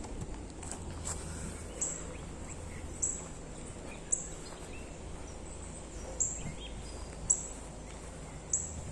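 Outdoor birdsong: a bird repeating a short, sharp, very high call about once a second, irregularly spaced, with a few fainter chirps from other birds over a steady background hush.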